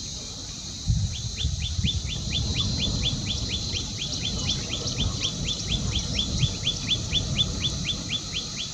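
A bird calling a rapid, even series of short falling notes, about five a second, starting about a second in. Behind it are a steady high hiss and a low rumble.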